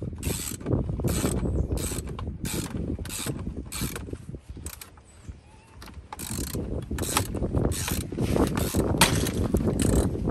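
Ratchet wrench working a bolt loose, clicking in short repeated strokes about every half second, with a brief pause near the middle.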